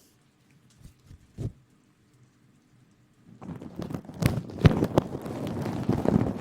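Close-microphone rustling and crackling with many sharp little clicks, starting about halfway in after a near-silent stretch broken by two soft taps.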